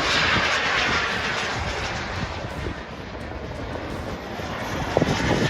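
Jet roar of two twin-turbine model Sukhoi Su-30 jets in flight. It fades through the middle and builds again near the end as the jets pass.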